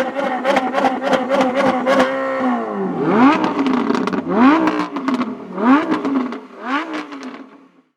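Dodge Viper 8.0-litre V10 held at high revs with a rapid crackle for about two seconds. The revs then drop and the engine is blipped four times, each rev rising and falling, before the sound fades out near the end.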